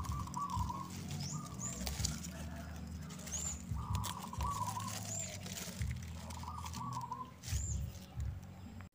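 Birds calling: a short, high whistled note repeating about every second and a half, and a lower warbling, cooing trill every couple of seconds, over a low steady hum.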